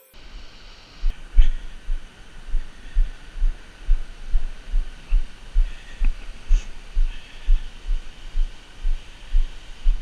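Dull low thumps at an even pace of about two a second, the jolts of a handheld camera carried by someone walking, over a faint steady hiss.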